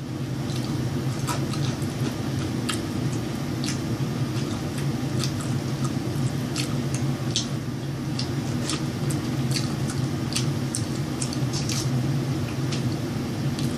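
Close-miked eating sounds, a person chewing with irregular wet clicks and small crunches. Under them runs a steady low hum.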